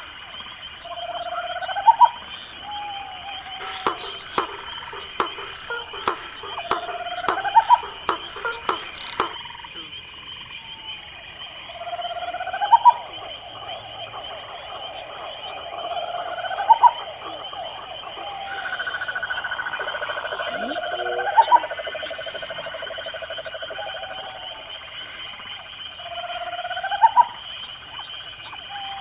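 Night chorus: crickets shrill steadily and high, with short ticks about every second above them. Against this a call repeats every few seconds, each one held low and then sweeping sharply upward, and frogs trill now and then.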